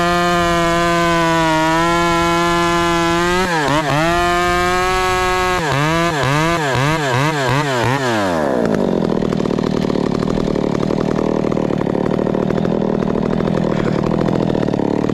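Stihl 500i two-stroke chainsaw running at high revs, with a brief dip about three and a half seconds in. It is then blipped up and down about twice a second before dropping to a rough idle after about eight and a half seconds.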